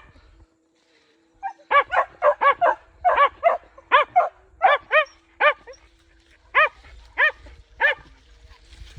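Hunting dog barking repeatedly: quick runs of sharp barks that slow to single barks near the end.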